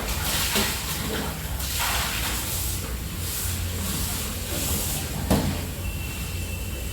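Water swishing and splashing in irregular bursts as clothes are soaked in water for washing, with a light knock about five seconds in.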